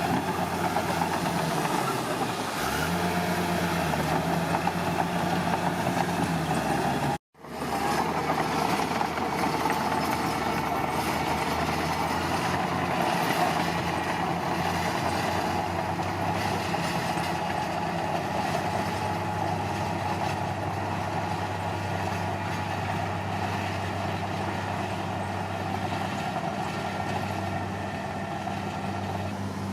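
Komatsu D41P bulldozer's diesel engine running steadily while working, its note shifting a couple of times. It cuts to silence for an instant about seven seconds in.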